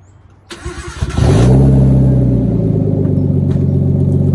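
Nissan Skyline R32's turbocharged inline-six being cranked over and catching about a second in, flaring up briefly and then settling into a steady fast idle from a medium cold start. It runs through the exhaust with the muffler still on.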